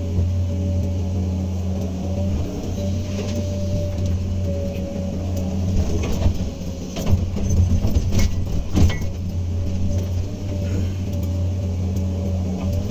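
Hydraulic excavator's diesel engine running steadily under working load, with a few sharp knocks about halfway through.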